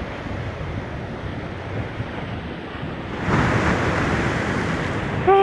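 Sea surf washing in over shallow reef and concrete wave-breakers, with wind buffeting the microphone. A louder wave surges in about three seconds in. A short falling voice-like call comes at the very end.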